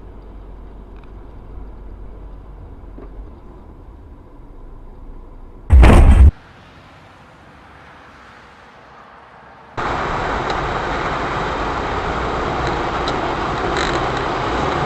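Car interior and road noise picked up by a dash camera while driving, broken about six seconds in by a sudden, very loud bang lasting about half a second. A few seconds later a different recording starts with louder, steady road and engine noise.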